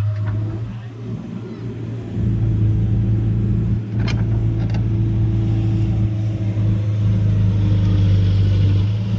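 Farm diesel engine running steadily with a deep hum, easing off briefly and picking up again about two seconds in, with a couple of sharp clicks near the middle.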